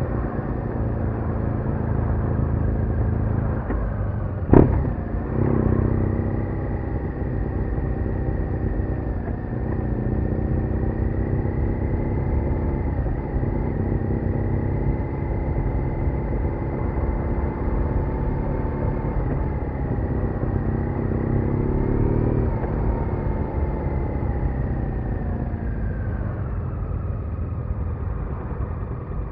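BMW R1200R boxer-twin motorcycle engine running steadily while being ridden on the road, its pitch shifting a little with engine speed. A single sharp knock comes about four and a half seconds in.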